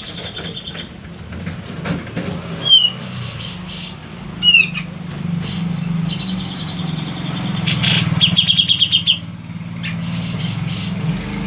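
Cucak jenggot (grey-cheeked bulbul) calling: a short sharp downslurred note about 3 seconds in, another at about 4.5 seconds, and a rapid chattering trill about 8 seconds in. Under it runs a steady low hum like a distant motor.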